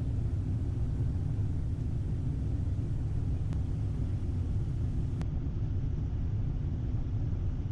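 Steady low rumble inside the cockpit of a Cessna Citation XL business jet on short final approach, with gear and flaps down.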